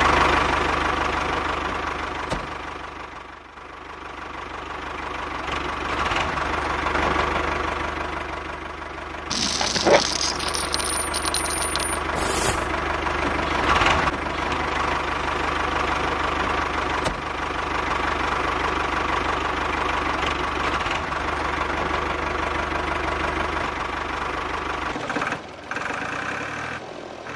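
Tractor engine running steadily with a knocking chug. A few brief clicks and rattles sound about a third of the way in.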